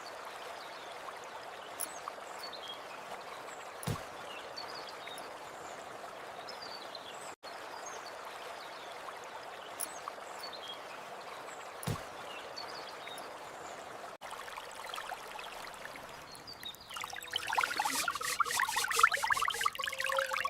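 Steady running water with faint short chirps above it. About seventeen seconds in, louder pouring and splashing takes over.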